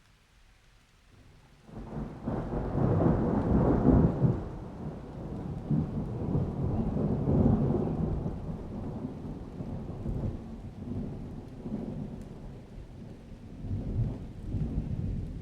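A long roll of thunder that breaks in about two seconds in, peaks twice and keeps rumbling with another swell near the end, over falling rain.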